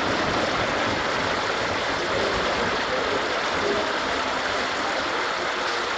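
Bangladesh Railway diesel locomotive moving along the station track: a steady rolling rumble of wheels on rails and engine noise, even throughout, with no distinct beat or horn.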